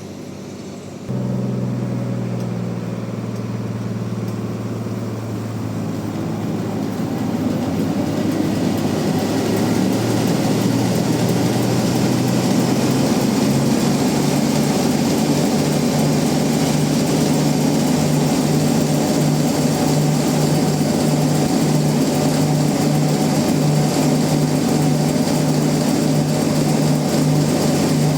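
Sawmill machinery starts up about a second in: a heavy engine or motor catches suddenly and builds up over several seconds to a loud, steady running drone.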